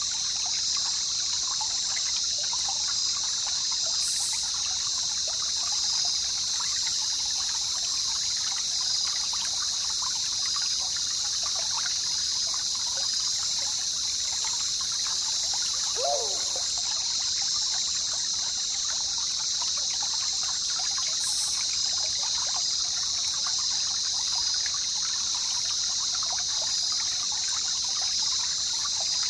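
A jungle river trickling and babbling steadily under a continuous high-pitched drone of insects. About halfway through, a short falling call sounds once.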